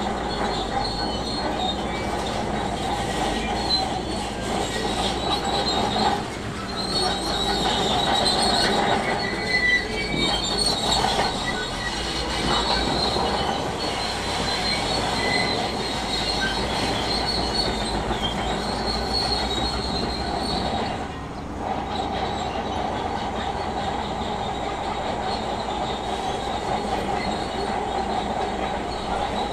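Crawler bulldozer working, its engine running steadily under squealing, grinding steel tracks.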